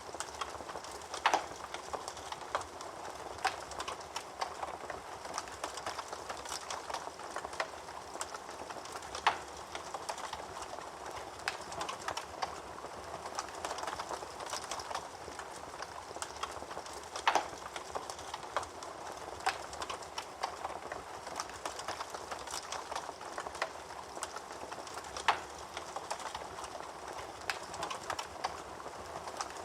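Wood fire in a fireplace crackling steadily, with a louder sharp pop about every eight seconds.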